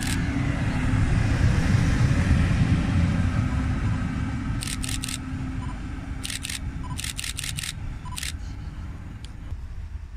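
A train rolling through the station: a low rumble that swells about two seconds in and then slowly fades, with a steady low hum under it. From about halfway on there are several short groups of sharp clicks, in twos to fours.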